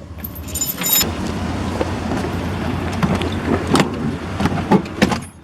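A car running with a steady low rumble and several sharp clunks and rattles, with a brief high-pitched squeal in the first second.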